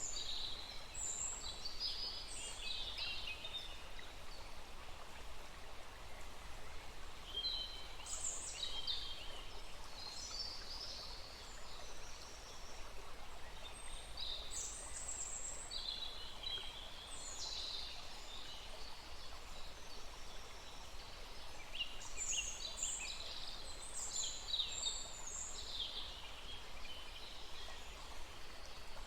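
Several songbirds chirping and singing in short phrases over the steady rush of a small stream.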